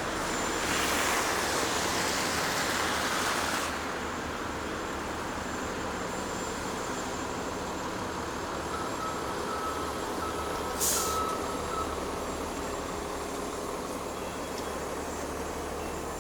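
Snowy downtown street traffic: a steady low rumble of engines, with a loud hiss lasting about three seconds near the start. A little past the middle there is an intermittent high beeping and a short, sharp hiss of air from a heavy vehicle.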